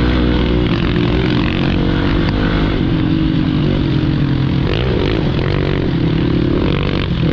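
Hero Xpulse 200's single-cylinder engine running under changing throttle while riding an off-road dirt trail, its pitch rising and falling several times.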